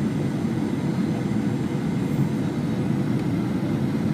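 Steady cabin rumble of a Boeing 737-900ER from a window seat: its CFM56-7B engines and the airflow over the fuselage, an even low roar with a faint steady hum above it.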